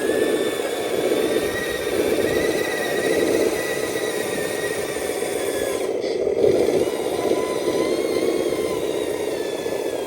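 Radio-controlled dump truck's electric motor and gearbox whining steadily as it drives, the whine drifting slightly in pitch, with a brief change about six seconds in.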